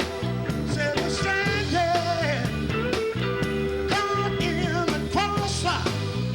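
Live rock band playing with a singer: a stepping bass line and steady drum beat under a gliding lead vocal.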